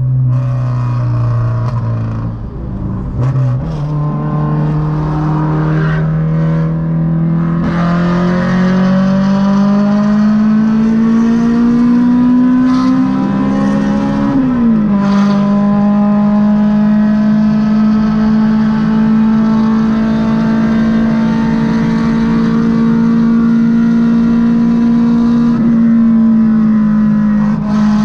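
Honda Civic EK's naturally aspirated VTEC four-cylinder heard from inside the cabin, accelerating hard at highway speed with road and wind noise underneath. The engine note dips briefly at a shift about three seconds in, then climbs steadily. Halfway through it drops sharply at a second upshift and climbs slowly again.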